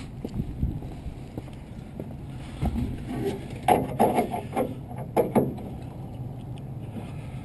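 Handling of a fuel sampler cup while a fuel sample is drained and checked for sediment: several quick clicks and knocks bunched together between about three and a half and five and a half seconds in, over a steady low rumble.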